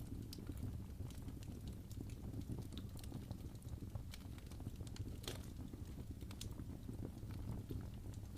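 Wood fire in a fireplace burning, with irregular crackles and pops over a steady low rumble of the flames.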